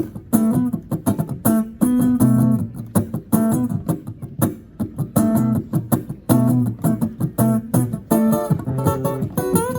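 Guitar strummed in a steady rhythm, chords played as an instrumental passage within a live song.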